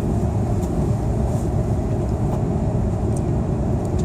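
Steady low rumble of cabin noise inside an Airbus A330-300: engine and airflow noise heard through the fuselage, with a few faint, light ticks.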